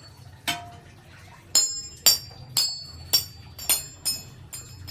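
Glass cups being tapped one after another, about eight bright clinks in a row, each with a short high ring. The strikes come roughly two a second, picking out a simple tune.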